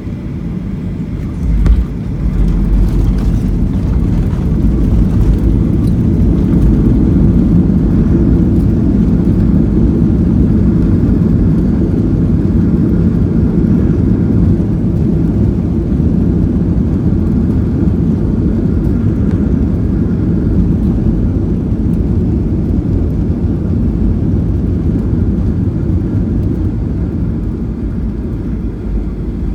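Boeing 737-800 cabin noise on landing: a single thump about two seconds in, then a loud engine and runway rumble that swells over the next few seconds and slowly eases off, in keeping with touchdown, reverse thrust and braking.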